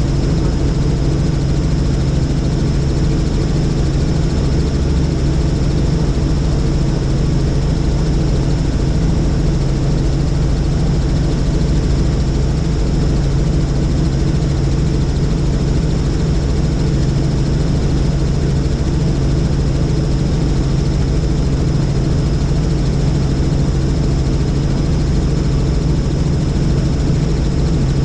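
Helicopter in flight: the rotor and engine make a loud, steady drone with a constant thin high whine above it.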